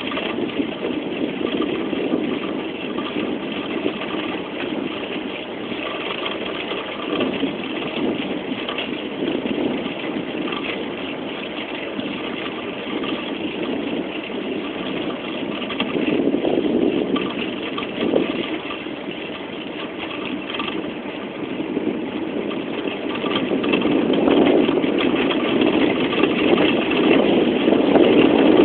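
Steady rushing noise of a bicycle ride: wind on the microphone and rolling tyres, swelling louder near the end.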